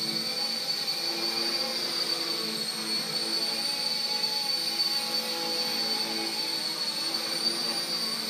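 Small electric RC helicopter (RC Era C032 UH-1 Huey) in flight: a steady high motor whine over the rotor hum, the lower tones wavering slightly with throttle.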